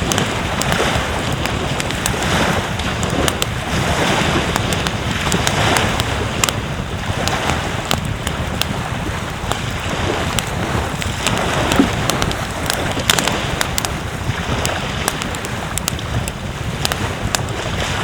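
Surf washing on the beach with wind buffeting the microphone, and scattered sharp little crackles over it.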